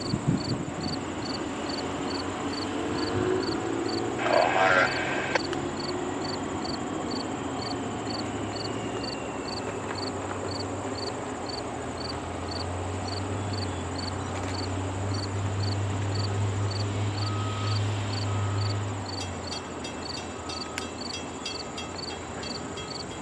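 Insects chirping in a steady rhythm, about two chirps a second, over a low engine drone that swells for several seconds in the middle and then fades, typical of a diesel freight locomotive in the distance. A brief louder noise comes about four to five seconds in.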